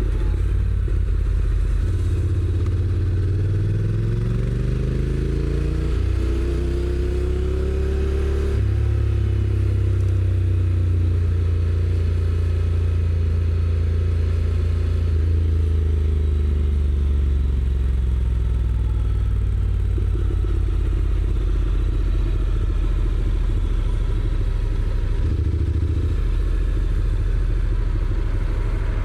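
Honda NC750X's parallel-twin engine on its stock exhaust, heard from the rider's seat: the pitch rises under acceleration, drops sharply with a dual-clutch gearbox upshift about a third of the way in, holds steady while cruising, then slowly falls as the bike slows.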